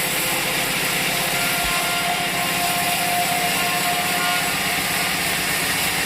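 A sawmill saw cutting through a log, a loud steady noise with a faint steady whine, its motor running throughout.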